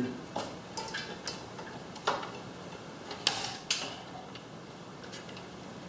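Irregular sharp clicks and small knocks as clips or connectors on a garage door opener's logic board are worked and pried loose by hand.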